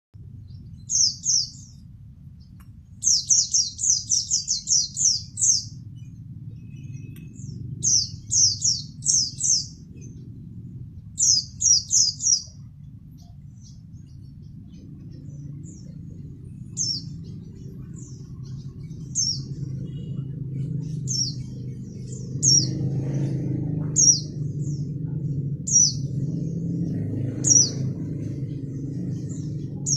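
Pet songbird chirping in sharp, high notes, in quick runs of four to eight chirps during the first half, then single chirps about every two seconds. A steady low rumble runs underneath and grows louder in the second half.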